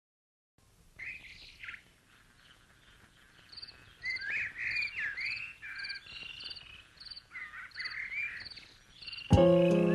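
Birds singing: sliding whistled phrases, with a short high call repeated about twice a second behind them. Music comes in loudly near the end.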